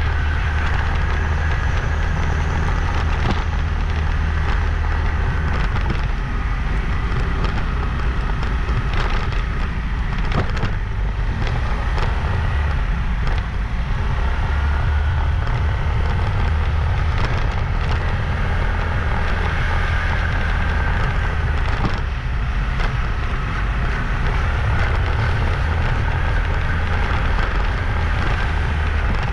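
Riding a motorbike: a steady low rumble of engine, road and wind on the microphone, with a crackly hiss over it and a few sharp knocks from bumps in the road.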